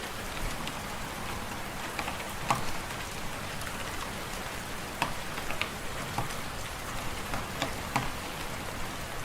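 Fireplace wood fire crackling: irregular sharp pops, several seconds apart or in quick pairs, over a steady hiss.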